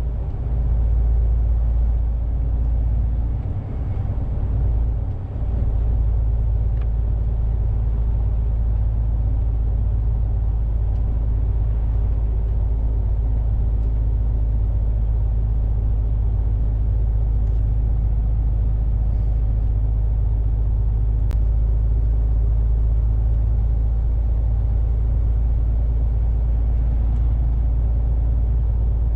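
Steady low rumble of a lorry's engine and road noise heard from inside the cab while driving, with a brief dip about four and five seconds in.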